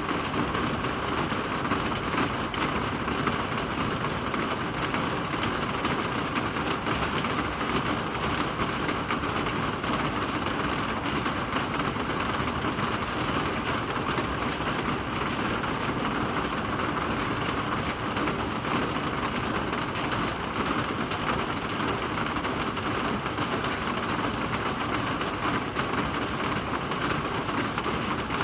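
Steady rain falling: an even hiss made of countless small drop hits, unchanging throughout.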